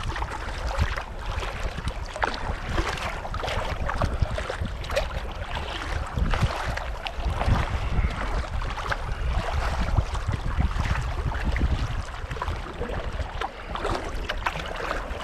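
Kayak paddles dipping and splashing, with water lapping at the hull, over a steady low rumble of wind on the microphone.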